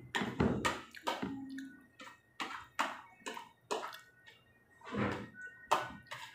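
Close-up mouth sounds of eating soft cassava in coconut milk by hand: wet chewing and lip smacks in short, irregular strokes, about two or three a second.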